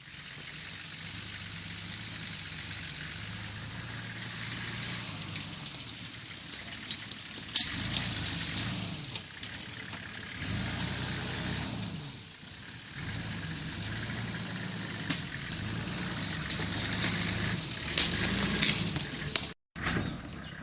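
Nissan Patrol GR Y60 engine pulling at low speed over rough ground, its pitch rising and falling as the throttle changes. It is mixed with scattered knocks and clatter from stones and the bodywork, loudest about a third of the way in and near the end.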